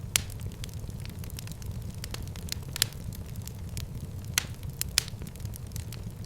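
Fireplace fire crackling: a steady low rumble of flames with scattered sharp pops and snaps, four of them louder than the rest.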